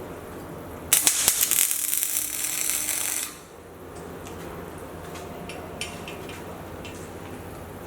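Electric arc welding: the arc is struck about a second in and crackles and sizzles for a couple of seconds before it cuts off, as in a short weld or tack. A few light metallic clicks follow.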